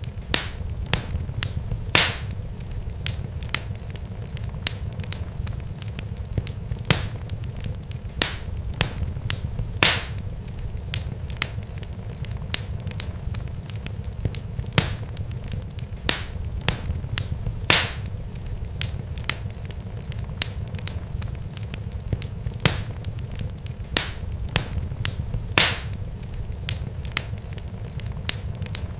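Irregular sharp crackles and pops, a few louder than the rest, over a steady low rumble.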